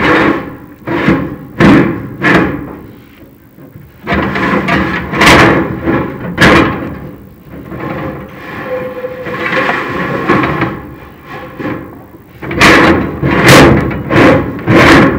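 Chimney inspection camera and its cable knocking and scraping against the inside of a prefabricated metal fireplace flue as it is fed down, in irregular clanks and longer scrapes.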